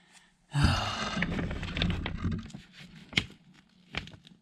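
Plastic sheeting rustling and crinkling as it is handled, starting suddenly about half a second in and fading, followed by two sharp knocks.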